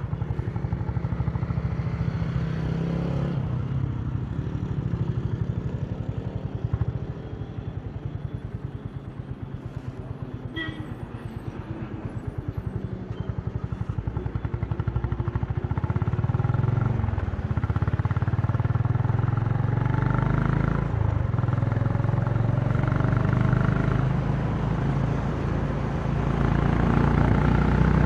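Honda CB350 motorcycle engine and exhaust running under way, heard from the rider's seat. It eases off somewhat past the first third, then pulls louder through the second half, the pitch rising and falling with the revs.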